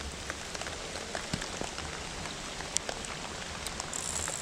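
Steady rain falling, with scattered drops ticking irregularly.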